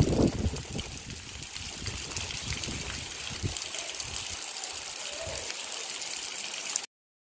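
Water trickling and splashing, with a steady hiss and low irregular knocks, stronger in the first moment; it cuts off abruptly near the end.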